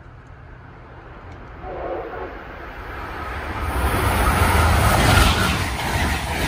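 A train approaching, growing steadily louder, with a deep rumble and rising rail and wheel noise. A brief pitched tone sounds about two seconds in.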